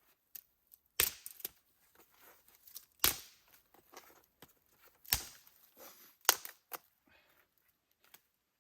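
Dry wood being broken up: four sharp cracks, about two seconds apart, each followed by a spatter of smaller snaps and crackles.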